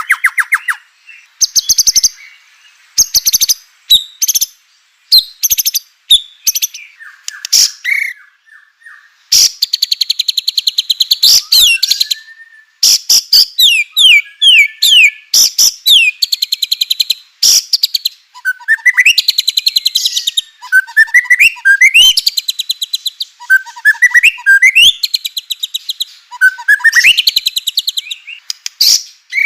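White-rumped shama (murai batu) singing loudly, with bursts of fast, harsh rattling churrs alternating with short whistled notes and downward-sliding whistles.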